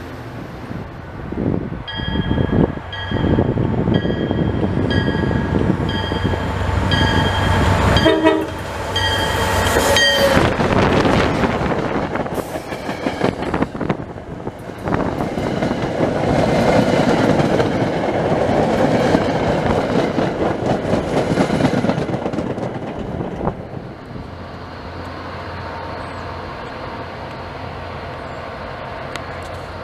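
MBTA commuter rail train coming through: a bell rings about once a second, with a short horn note about eight seconds in. Then the bilevel coaches pass with a loud wheel rumble and rail clatter for about twelve seconds, before dying down to a lower steady background.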